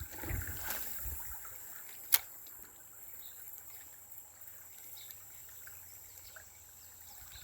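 Faint outdoor ambience with a steady high-pitched whine or hiss, some low handling rustle in the first second, and one sharp click about two seconds in.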